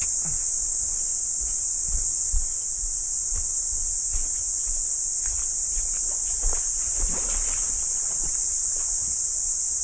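A chorus of cicadas makes a steady, loud, high-pitched drone. Scattered low knocks and rumbles sit beneath it.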